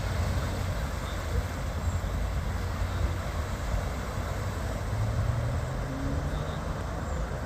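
A steady low rumble, with a low hum that comes in about five seconds in.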